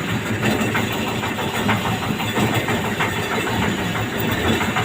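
Septic siphoning truck's engine running steadily.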